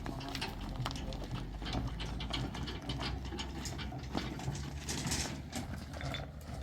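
Steady low machine hum with irregular clattering clicks and knocks over it.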